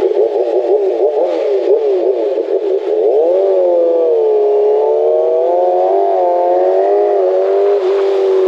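Kawasaki ZX6R's inline-four engine heard on board, revving up and down quickly for the first three seconds as the rider works the throttle and gears. It then holds a high, steady note that rises and falls gently as the bike pulls at high revs.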